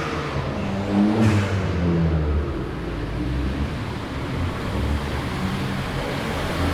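Car engines rumbling at low revs, with a brief rise in revs about a second in.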